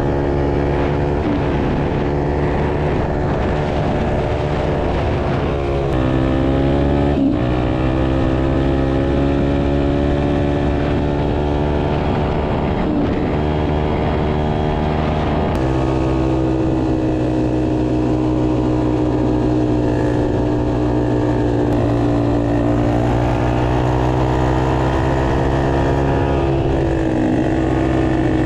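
Single-cylinder four-stroke dirt bike engine running near full throttle on a top-speed run. The steady engine note dips and picks up again a few times, at about six to seven seconds and again near fifteen seconds, with slower rises and falls in pitch later on.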